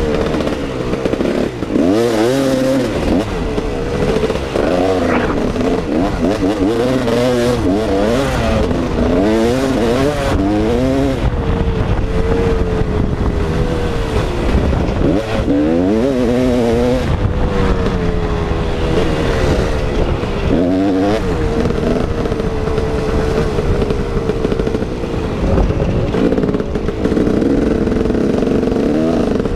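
KTM 380 EXC two-stroke motocross engine being ridden hard, its pitch rising and falling over and over as the throttle opens and closes, with a steady rush of noise under it.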